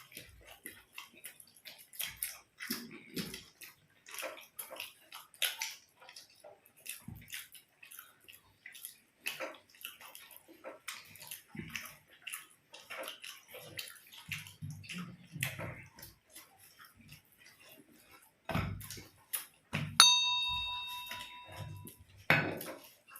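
Close-up eating sounds as lachha paratha and egg fry are eaten by hand: irregular wet chewing, smacking and small clicks. About twenty seconds in, a metal dish is struck once and rings on for a couple of seconds.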